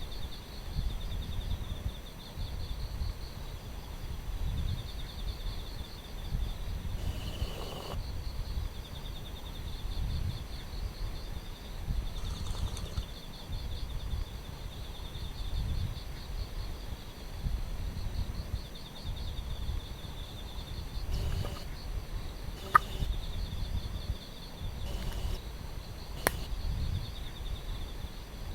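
Outdoor ambience: insects trilling in fast, even pulses over a low, uneven rumble of wind on the microphone, with a few sharp clicks in the second half.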